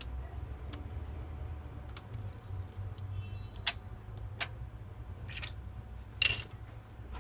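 Scattered sharp clicks and taps of a smartphone's small plastic and metal parts and tools being handled during disassembly, the loudest about three and a half and six seconds in, over a steady low hum.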